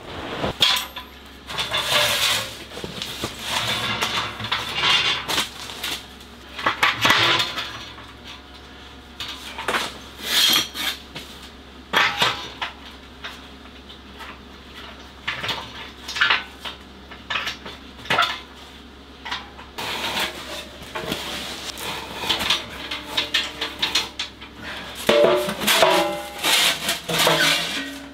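Sheet-metal wood stove and stovepipe being assembled: irregular metal clanks, knocks and scrapes as the stove body, legs and pipe sections are handled and fitted together, a few of the knocks ringing briefly near the end.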